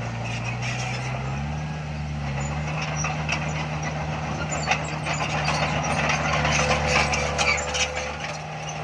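Heavy diesel engine of earthmoving machinery running under load, its engine speed stepping up about a second and a half in. Scattered clanks and rattles grow denser through the second half.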